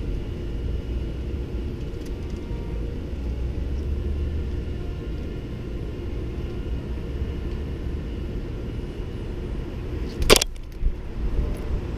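Outdoor background noise: a steady low rumble, with a single sharp knock about ten seconds in.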